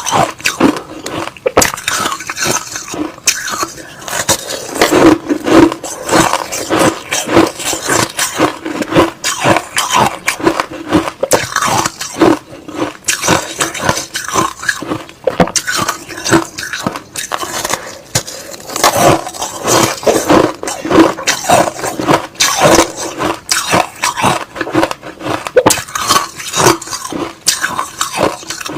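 Close-miked chewing of crushed ice and slush: dense, irregular crunching and crackling, one bite after another.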